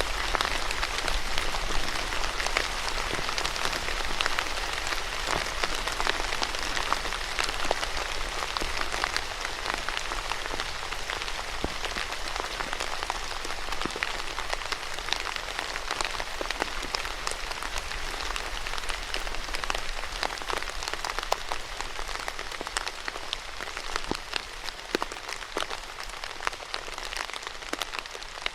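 Steady rain falling on a surface, an even hiss sprinkled with many distinct drop impacts, easing slightly near the end.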